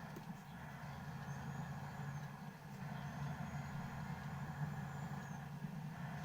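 Car being driven: a steady engine hum with road noise, unchanging throughout.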